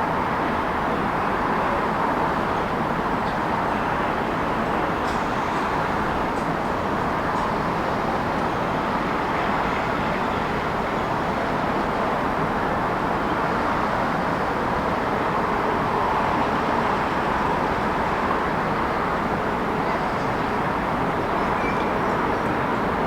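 City ambience: a steady wash of traffic noise, even throughout, with a few faint brief clicks or ticks.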